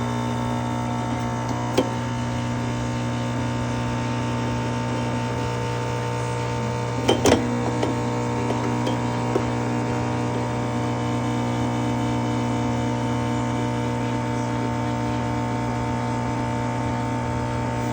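Nespresso-clone capsule coffee machine brewing: its pump buzzing steadily while it pushes water through the capsule, with a brief rattle about seven seconds in.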